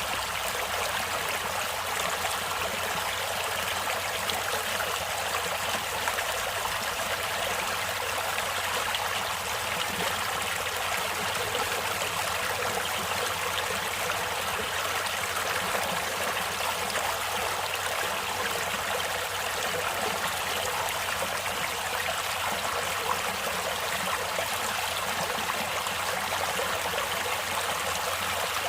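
Running water of a stream or small river, a steady rushing and babbling.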